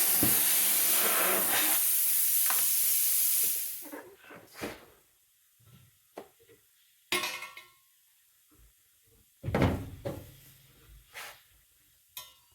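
Arc metalwork on steel exhaust pipe hissing steadily for about four seconds, then stopping, followed by a few short knocks and clanks.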